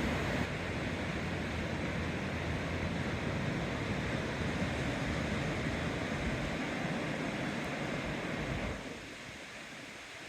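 Steady rushing noise that drops away abruptly near the end.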